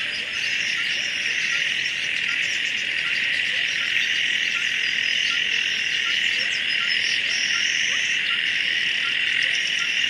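Dense wetland nature ambience: a steady, high insect chorus with frogs croaking and short bird chirps scattered through it.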